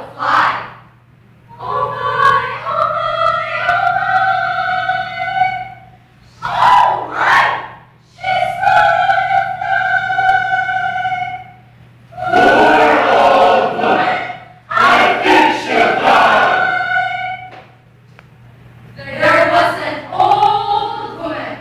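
A group of voices singing in unison, in phrases a few seconds long with short breaks between, some phrases ending on long held notes.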